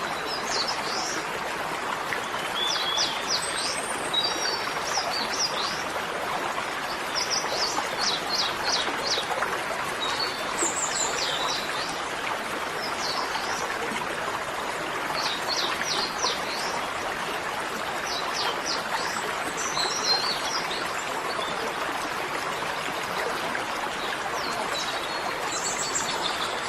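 Small birds chirping in short runs of quick, high, downward chirps every few seconds over a steady rush of flowing water.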